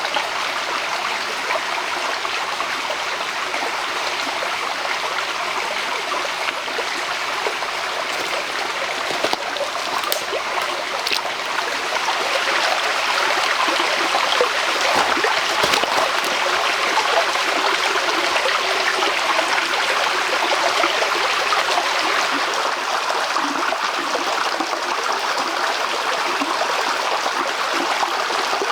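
A stream flowing steadily with a rushing, trickling sound that grows a little louder about halfway through. A few faint clicks come near the middle.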